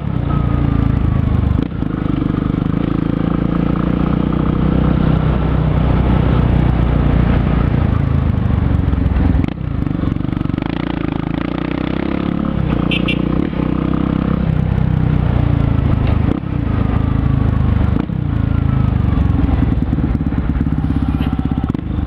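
Yamaha XTZ 250 Lander's single-cylinder four-stroke engine running loud through a DORE aftermarket exhaust while being ridden, revs rising and falling with several brief dips in level.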